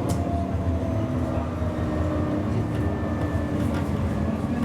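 Siemens Avenio tram running, heard from on board: a steady rumble of wheels on the rails, with a faint whine from the electric drive that glides slowly in pitch.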